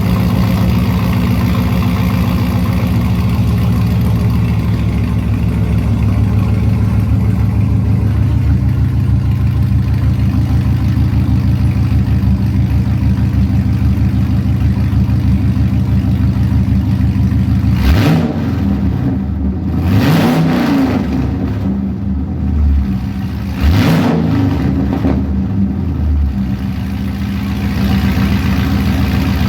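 2013 Camaro SS 6.2-litre V8 running through long-tube headers, no catalytic converters and cheap Speedway Motors bullet mufflers, idling after a cold start with its idle easing down a little. About two-thirds of the way in the engine is reved up and let fall twice, then it returns to idle.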